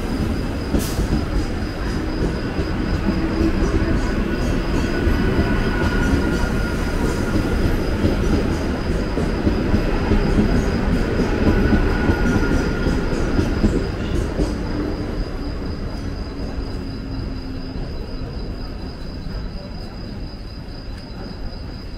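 Mumbai suburban local train (electric multiple unit) running past along the platform: a steady rumble of wheels on the rails that grows a little, then fades over the last several seconds as the train pulls away.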